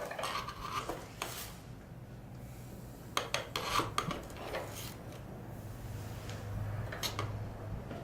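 Iron tools and stock in a blacksmith's shop scraping and clinking in short, scattered clusters, over a low steady hum.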